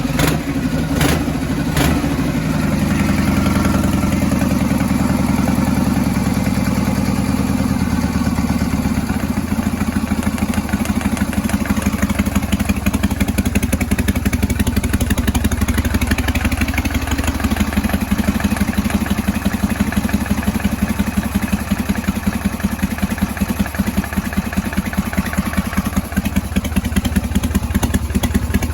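1978 Harley-Davidson FLH's Shovelhead V-twin running. It is fuller for the first several seconds, then settles into idle with an even pulsing beat. Two sharp clicks come in the first two seconds.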